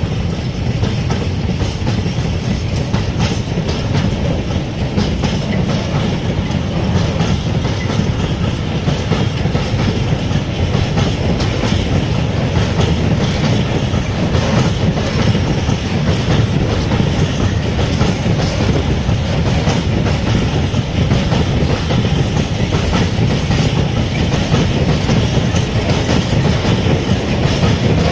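Freight train of open-top freight wagons rolling past, a steady rumble with wheels clicking over the rail joints.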